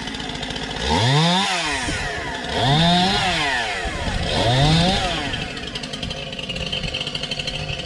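Chainsaw engine revved up sharply and let back down three times, about every second and a half to two seconds, then running at a lower, steadier speed near the end.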